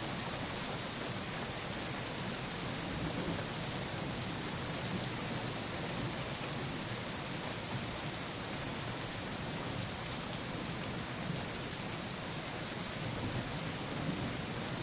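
Steady rain, with a low rumble of thunder rising and falling underneath.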